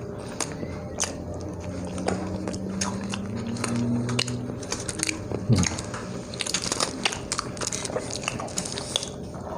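Close-miked eating of pizza: biting and chewing with a run of wet mouth clicks and smacks.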